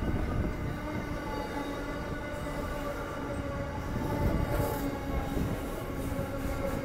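Container freight train wagons rolling past on the rails, a steady noise of wheels on track with a few held tones over it.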